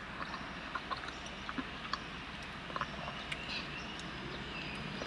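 Quiet chewing and mouth sounds of someone eating spicy mac and cheese with chicken nuggets, with scattered small clicks.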